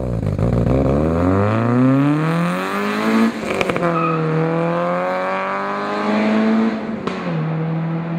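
A 1979 VW Golf's 2-litre 16-valve engine on dual Weber 45 carburettors accelerating hard away, revving up steeply, shifting up about three seconds in, then revving up again with another shift about seven seconds in.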